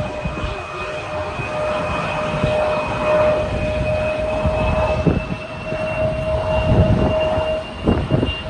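Jet airliner engines running with a steady whine in two held tones over a low rumble that swells and dips.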